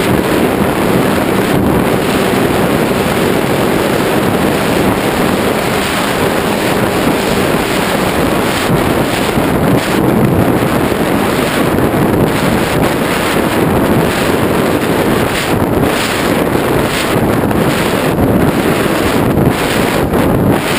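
Loud wind buffeting the microphone in uneven gusts, a dense rushing roar with no clear motor tone.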